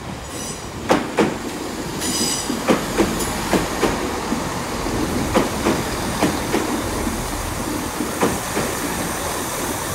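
A Class 166 Turbo diesel multiple unit rolling slowly along the platform. Its wheels clack over the rail joints in pairs, and there is a brief high wheel squeal about two seconds in.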